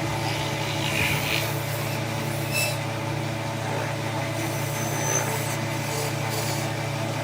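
Steady low motor hum, even and unchanging, with a few faint clicks.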